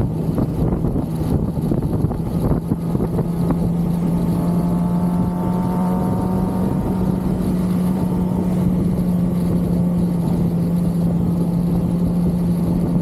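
Stock 2023 Kawasaki ZX-6R's inline-four engine running at a steady pitch at cruising revs, with rushing noise over it.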